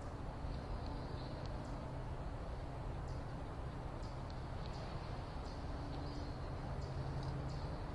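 Small birds chirping: short, high chirps repeated irregularly, more often in the second half, over a steady low rumble.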